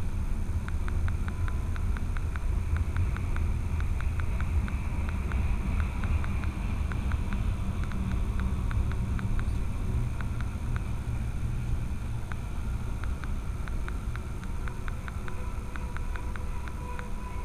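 Freight train rolling past: a steady low rumble with many light, irregular clicks.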